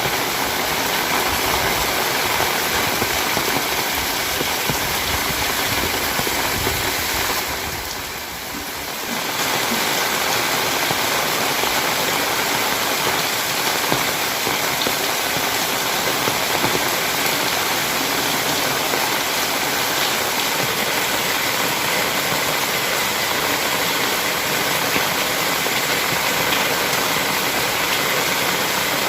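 Heavy rain falling, a steady even hiss that dips briefly in level about eight seconds in.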